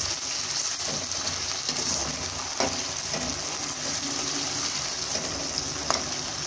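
Raw chicken pieces sizzling in hot oil with fried onions in a kadai, a steady hiss, while a spatula stirs and turns them, scraping the pan a couple of times.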